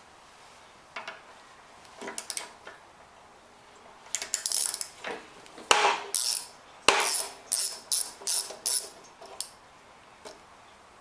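Metal hand tools clicking and clinking against a lawn mower engine while its spark plug is being taken out. A few scattered clicks come first, then a busier run of sharp clinks in the middle, some about two or three a second.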